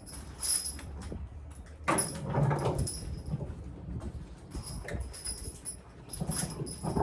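A team of draft horses being driven: harness and vehicle hardware jangle and squeak again and again, with a louder clattering stretch about two seconds in.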